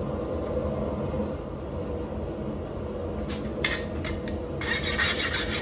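A steady background hum and a few sharp metal clinks, then from about four and a half seconds in a hand file rasping quickly back and forth over a freshly quenched 5160 steel blade, skating on the hardened steel: the file test for hardness, with a little scale on the surface.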